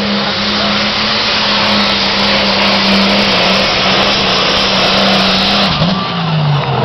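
Pro stock pulling tractor's diesel engine running flat out under load with a loud, steady howl. Near the end its pitch drops as the engine is throttled back.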